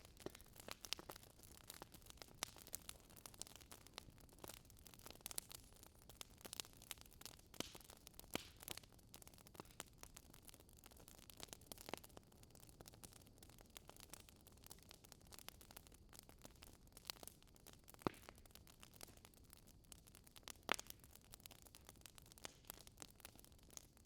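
Wood fire in a fireplace crackling softly, with irregular small pops and snaps over a low hiss; two louder pops stand out, one about 18 seconds in and one about 21 seconds in.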